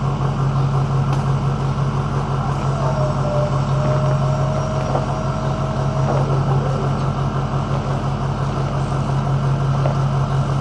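Engine idling steadily with a deep, even hum, a faint thin whine riding over it for a few seconds in the middle.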